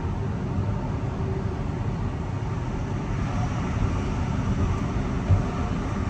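Mariyung (D set) electric passenger train running: a steady low rumble of wheels on track with faint steady tones, and a single knock about five seconds in.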